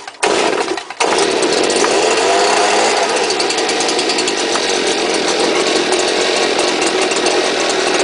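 Stihl BG86 leaf blower's two-stroke engine firing in two short spurts with brief cut-outs, then catching about a second in and running steadily on a cold start.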